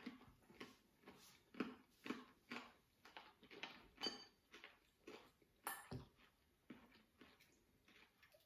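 Close-up chewing of a crisp fried spring roll (lumpia), short crunchy bites at about two a second that fade out after six seconds. A metal fork clinks once against a bowl about four seconds in, with a sharp click near six seconds.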